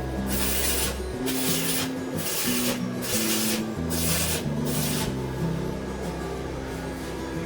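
Repeated rasping strokes by hand, like filing or rubbing metal, about one and a half a second, over background music with a low melodic line.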